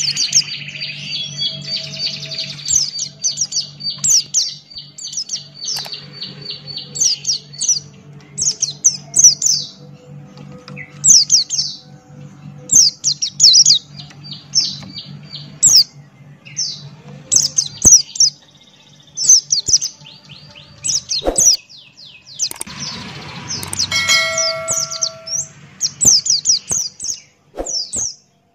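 White-eye (pleci) singing energetically: fast runs of high, sharp chirping notes in repeated short phrases with brief gaps. A low steady hum runs underneath.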